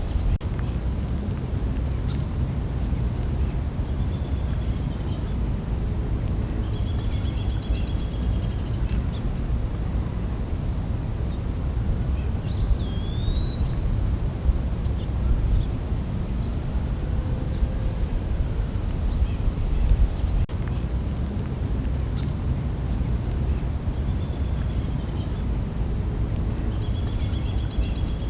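Night forest insect chorus: a steady high insect drone with a cricket chirping in an even rhythm of two to three chirps a second. Bursts of fast trilling come twice in the first third and twice near the end, and a single short rising-and-falling bird whistle sounds a little before halfway, all over a steady low rumble.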